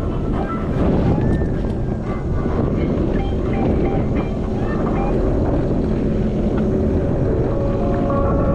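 Personal watercraft (jet ski) engine running under way over choppy ocean waves, with wind buffeting the microphone.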